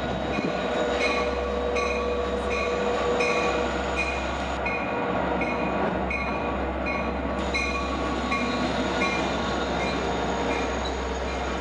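A Long Island Rail Road DM30AC dual-mode locomotive passes at the head of a train of bilevel coaches, with a steady rumble and drone. Its bell rings with an even ding about every two-thirds of a second.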